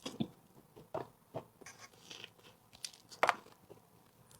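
Close-miked eating: a few short crunches and wet mouth clicks from chewing, spaced irregularly, the loudest about three seconds in.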